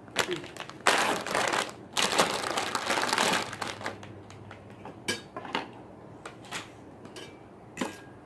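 Plastic instant-noodle packet being crinkled and handled in two rustling stretches, followed by a few short clicks.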